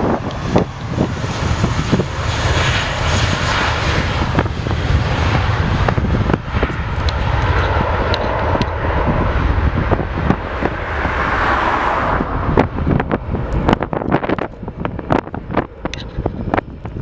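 Airbus A320 jet engines at take-off power, a loud steady roar that swells and then fades about twelve seconds in as the airliner moves away. Wind buffets the microphone with sharp crackles in the last few seconds.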